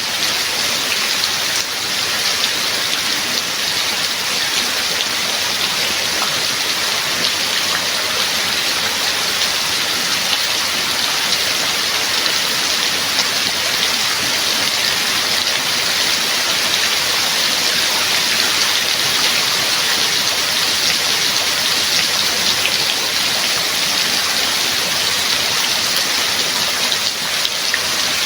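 Steady heavy rain: a dense, even hiss of many drops falling, without let-up.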